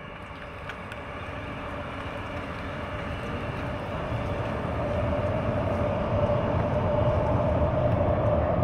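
Double-deck Sydney Trains electric train approaching and rolling onto a rail bridge, its rumble growing steadily louder. A steady whine comes up about halfway through.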